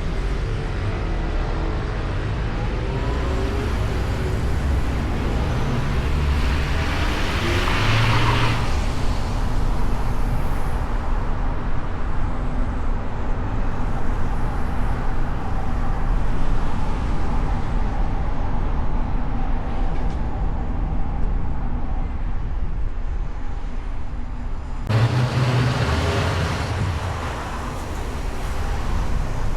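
A car driving through city traffic, with steady road and engine rumble picked up outside the car on its hood. The noise swells louder for a couple of seconds around eight seconds in and again near the end, as of other vehicles going by.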